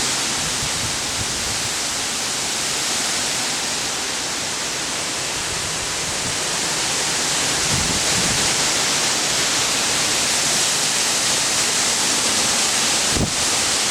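Strong gusting wind after a hurricane: a steady, loud rushing hiss, with a couple of brief low thumps of wind hitting the microphone.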